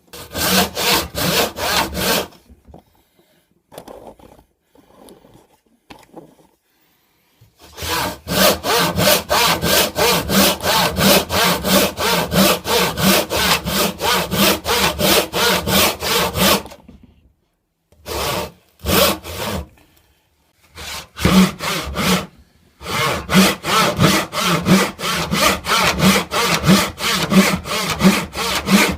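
Hand saw cutting wood in quick, even back-and-forth strokes, stopping twice for a few seconds before starting again.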